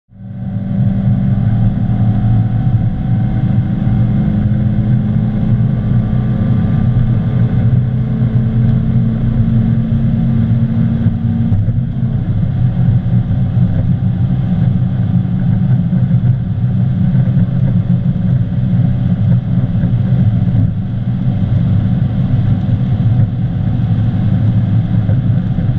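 Honda Civic Type R's turbocharged four-cylinder engine heard from inside the cabin, pulling hard at high revs above 200 km/h, over wind and road noise. The engine note climbs slowly, then changes with an upshift into sixth gear about halfway through.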